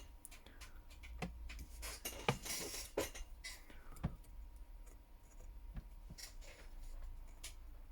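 Scattered small clicks and a brief scrape as a smartphone's camera module is prised up and handled on its motherboard with a pry tool, over a faint low hum.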